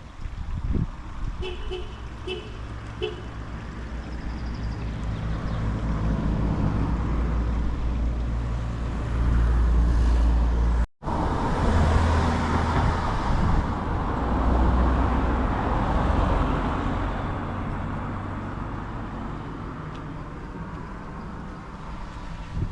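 A motor vehicle's engine runs close by, growing steadily louder to a peak near the middle and then slowly fading as it moves off. The sound cuts out for a split second about halfway through. A few short high beeps come about two seconds in.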